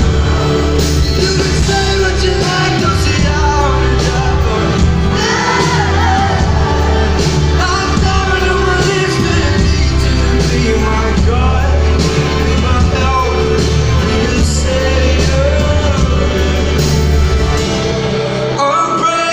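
Live band playing loudly with singing over a heavy, sustained bass, with some shouts from the crowd; the bass drops away shortly before the end.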